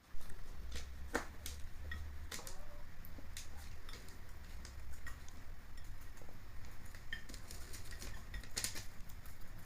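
Hens pecking at feed in a dish: scattered, irregular light taps and clicks, over a faint low hum.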